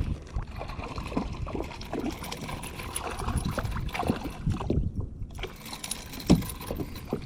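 Water splashing and trickling around a kayak with irregular small knocks and rattles against the hull as a small fish is brought in, with one louder knock about six seconds in.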